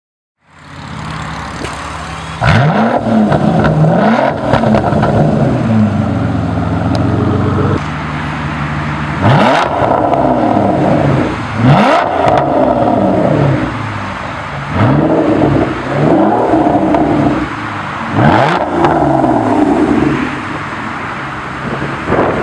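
2014 Aston Martin Vanquish's V12 breathing through a Quicksilver Titan aftermarket exhaust, fading in at idle and then revved repeatedly. It gets a run of quick throttle blips, a few longer revs that climb and drop back, and settles to idle near the end.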